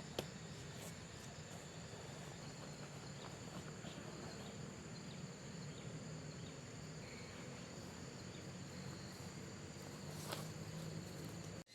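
Steady night chorus of insects, thin high trilling notes over a low hiss, with a few faint clicks and a sharper knock about ten seconds in.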